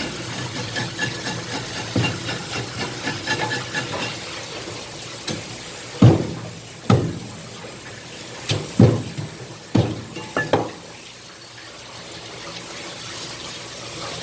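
Kitchen work at a sink: water running, with light clatter at first, then about six heavy knocks and thuds in the middle, like a knife and a whole rock bream striking a cutting board.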